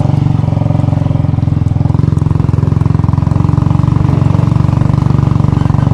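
Royal Enfield Bullet's single-cylinder four-stroke engine running steadily with an even, rapid firing pulse.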